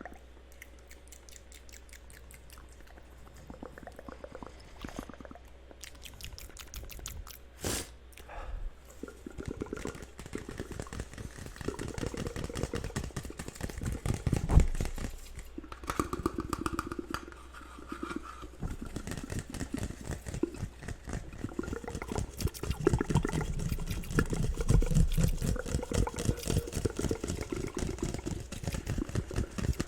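Layered ASMR mouth sounds: rapid wet clicks and smacks, sparse at first and growing denser and louder from about ten seconds in.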